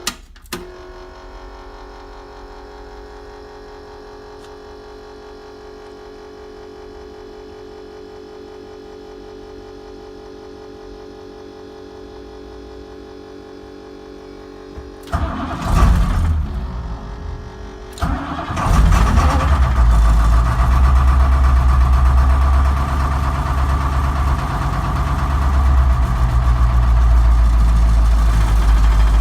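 A steady hum for about fifteen seconds, then the Blue Bird International bus's engine cranks, falters, and catches about three seconds later on a rough cold start. It then runs loudly and steadily at idle.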